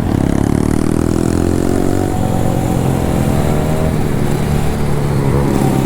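Dirt bike and pit bike engines running loud at low speed. One engine's pitch climbs gently for about two seconds and then drops away, while another holds a steady idle. The pit bike is so loud.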